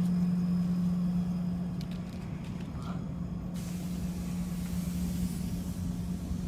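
Machinery running with a steady low hum at one pitch over a rumble; a hiss comes in about halfway through.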